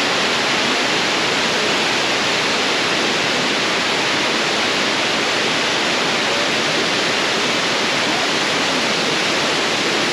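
Khandadhar waterfall's falling water, a steady, even rush that holds at one level throughout.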